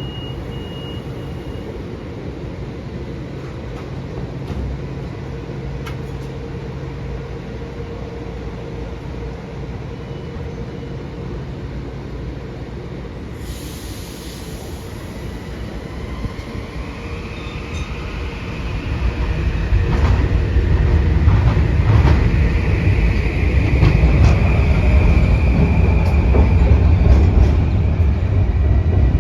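Metro-North commuter train at a station platform: a steady low hum, a short burst of air hiss about halfway through, then a rising whine and a much louder rumble of wheels on rail as a train gets moving or comes through in the last third.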